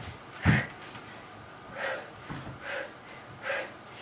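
Heavy, breathy exhales from a person exerting themselves in a bodyweight workout. The first, about half a second in, is louder and voiced like a grunt; four softer puffs of breath follow.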